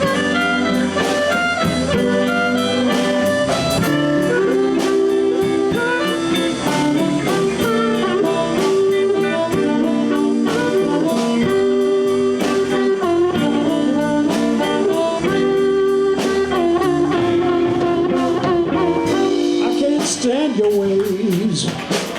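Live blues band playing an instrumental passage between sung verses: electric guitar, bass and drum kit, with a lead line of held notes that slide and bend in pitch, especially near the end.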